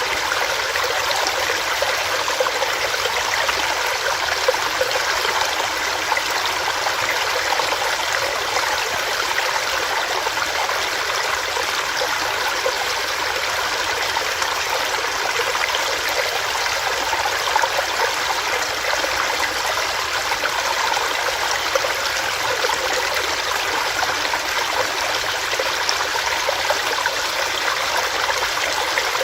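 Small stream running over rocks: a steady, even rush of water with fine splashing and gurgling.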